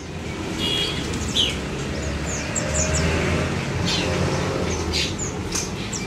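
Small caged songbirds chirping: scattered short, high calls, some falling in pitch, over a steady low rumble.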